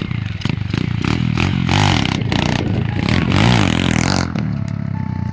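Pit bike's small single-cylinder engine revving hard, the pitch climbing and falling back twice, with some clatter.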